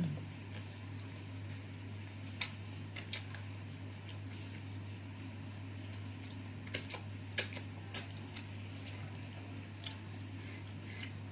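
Eating sounds: a scattering of short sharp clicks and taps, the loudest about two seconds in and a cluster around seven seconds, over a steady low hum.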